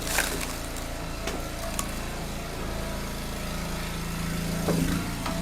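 Small gasoline engine of a log splitter running at a steady speed, with a few sharp knocks of split firewood being handled.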